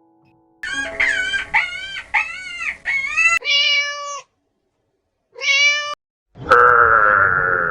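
Kittens meowing, a quick run of short rising-and-falling meows, then a couple of longer meows. About six and a half seconds in, a long, loud, steady animal call begins.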